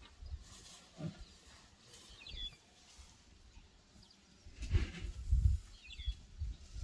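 Two short bird chirps over quiet open-country ambience. About five seconds in there is a burst of low rumbling noise.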